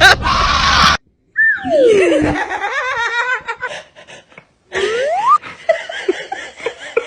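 Laughing vocal sounds with pitch slides: a long downward slide followed by a quick run of wavering laughter, then, after a brief silence, an upward slide.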